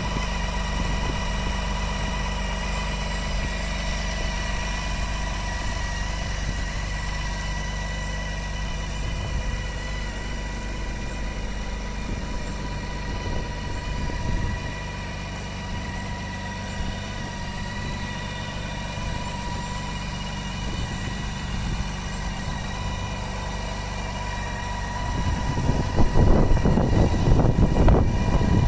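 Motorcycle engine idling steadily, growing louder and rougher about 25 seconds in.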